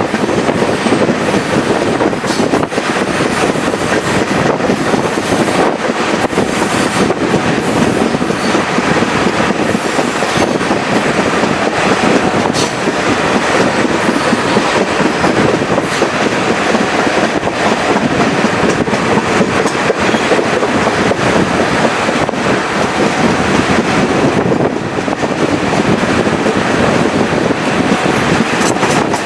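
Chepe passenger train on the Chihuahua–Pacific railway running steadily along the line: a loud, continuous rumble of wheels on the rails, with rapid clicking clatter over the track.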